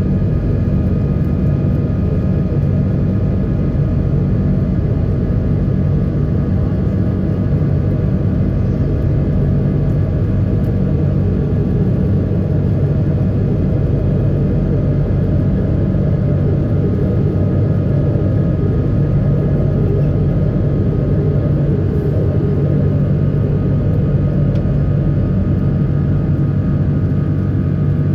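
Boeing 777-300 cabin noise in flight: a steady drone of engines and airflow with a low hum and faint steady tones above it.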